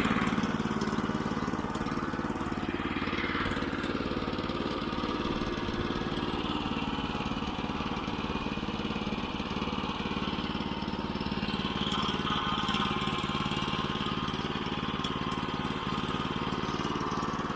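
The 9.5 hp engine of a Woodland Mills HM122 portable band sawmill running steadily.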